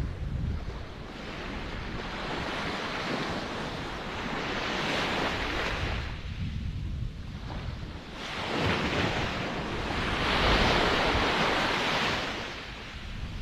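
Ocean surf: waves breaking and washing in, swelling and ebbing in slow surges, the biggest surge late on. Wind rumbles on the microphone underneath.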